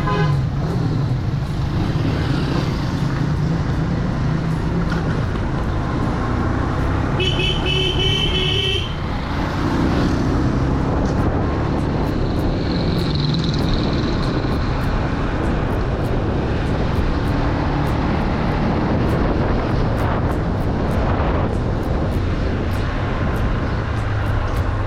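Motorbike running steadily along a road, with a horn sounding for about a second and a half around seven seconds in.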